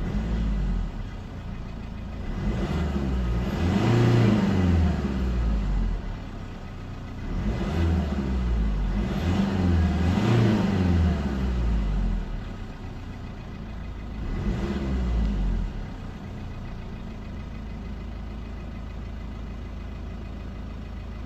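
Mercedes C220 CDI's 2.2-litre four-cylinder diesel being revved in several blips from idle, then settling back to a steady idle. The car is in limp mode, capped at 3,500 rpm.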